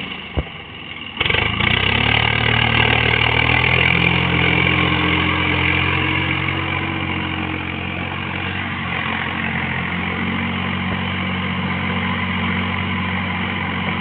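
Swaraj tractor's diesel engine running steadily, its pitch climbing slightly for a few seconds. Just after the start it briefly drops away with a single click, then comes back louder about a second in.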